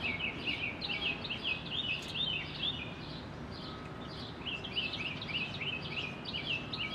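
A bird chirping in quick runs of short, high notes, about five a second, breaking off briefly around the middle, over a steady outdoor background hum.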